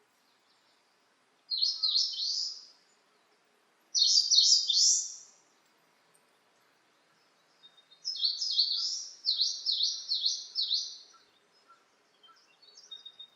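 A songbird singing phrases of quick, high, repeated notes: three loud bursts, the third and longest running about three seconds, then a fainter phrase near the end. Between phrases the background is nearly silent.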